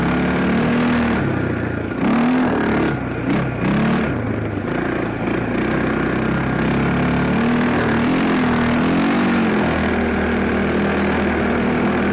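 Dirt bike engine running hard, its pitch rising and falling as the throttle is opened and closed, with a few quick revs between about two and four seconds in.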